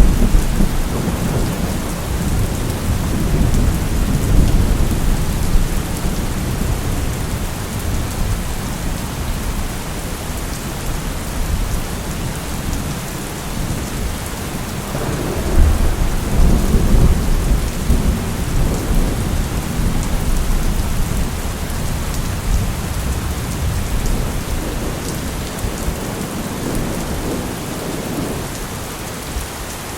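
Thunderstorm: steady rain falling, with thunder rumbling low and rolling in and out. A louder roll of thunder starts about halfway through.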